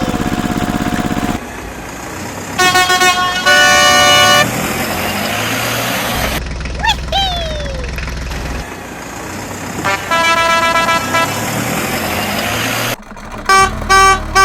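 Vehicle horn honking: two long blasts, another long honk later, and a run of short evenly spaced toots near the end, over a steady engine sound. A quick falling whistle comes in the middle.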